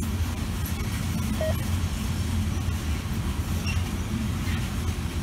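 Freight train of open-top hopper cars rolling past, its wheels on the rails making a steady low rumble.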